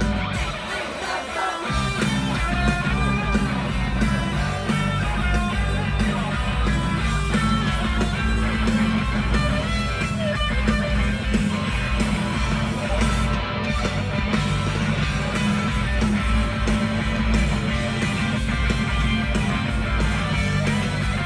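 Live rock band playing an instrumental stretch through a festival sound system, led by electric guitar over heavy bass, with no singing. The low end drops out briefly in the first second and a half, then the full band carries on steadily.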